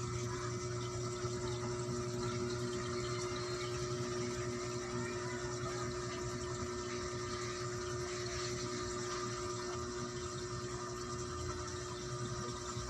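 Aquarium pump running with a steady hum, with water trickling and splashing under it.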